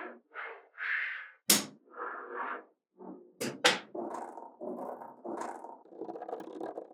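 Small magnetic balls being handled and assembled: bursts of rolling, rattling clatter, with sharp clicks as balls snap together about a second and a half in and twice in quick succession a little after three seconds.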